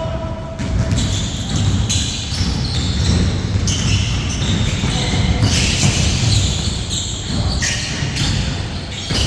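A basketball bouncing repeatedly on a court during play, with the shuffling and scuffing of players moving around it.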